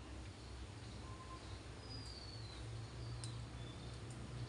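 Quiet room tone with a steady low hum, over which a few faint, high, falling bird chirps are heard; a light click about three seconds in.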